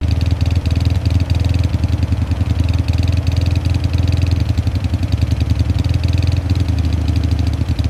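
Royal Enfield motorcycle engine running steadily at a fast idle, a rapid, even pulsing beat that starts and cuts off abruptly.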